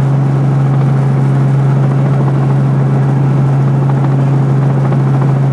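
Helicopter running, a loud steady drone of engine and rotor with a strong low hum.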